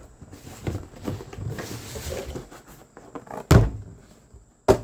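A cardboard package being handled and rustled, then two loud thumps about a second apart near the end as the box is knocked or set down.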